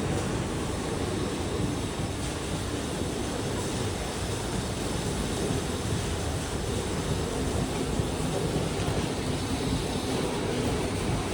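Train running through the station: a steady rumble of wheels and motors on the track with a faint hum, even in level throughout.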